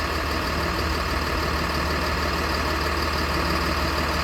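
School bus engine idling steadily, driving the chassis air-conditioning compressor while the system is being charged with refrigerant.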